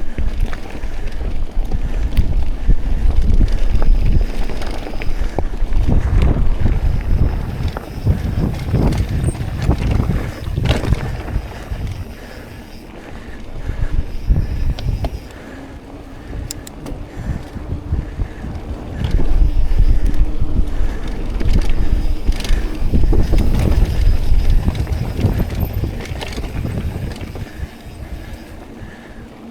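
Mountain bike ridden fast along a dirt trail, with tyre noise, clatter and knocks from the bike over bumps, and wind buffeting the action camera's microphone in heavy gusts. It eases off for several seconds about halfway through, then picks up again.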